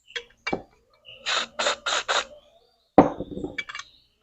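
Handling noises from cleaning a freezer fan motor's shaft: short rubbing strokes, four in quick succession, as the shaft is wiped clean of old lubricant and dirt, then a sharp knock about three seconds in followed by a few light clicks.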